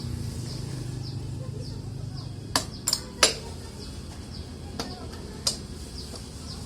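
Sharp metallic clinks and knocks, three close together a few seconds in and two more spaced out after, over a low steady hum.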